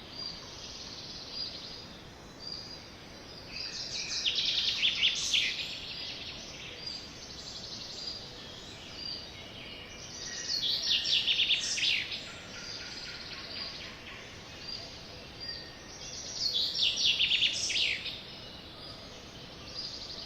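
Sparrow singing: three bursts of rapid, high chattering notes, each about two seconds long and spaced about six seconds apart, with single short chirps in between over a steady background hiss.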